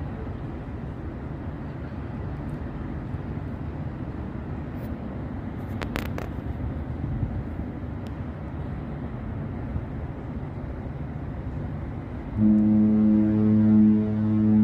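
Steady low rumble of a ship under way, then a ship's horn sounds a long deep blast starting suddenly about twelve seconds in, the loudest thing here, signalling the ship's departure from port.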